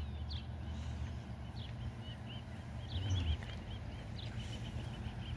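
Small birds chirping in many short, high calls repeated throughout, over a low steady outdoor rumble, with one brief low sound about three seconds in.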